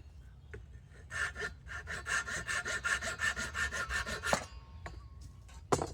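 A hand tool worked rapidly back and forth on wood, about six strokes a second for some three seconds, then stopping. Near the end there is a single sharp knock.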